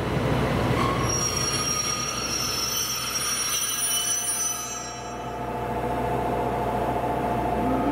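Train moving through a station, its wheels squealing against the rails in several high, steady tones from about a second in until about five seconds in, over a running rumble. Near the end a lower steady tone takes over.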